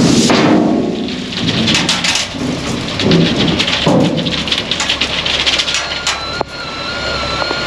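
A load of clear stone sliding out of a dump truck's raised box: a loud rushing rumble that cuts off suddenly, then stones clattering and rattling down. An electronic beeping tone from the truck starts near the end.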